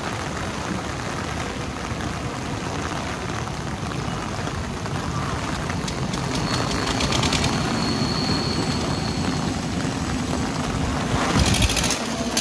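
Mumbai suburban local train (electric multiple unit) running along the tracks, heard as a steady rumble under the hiss of heavy rain, growing slightly louder. A spell of rapid clicking comes about halfway through and again near the end.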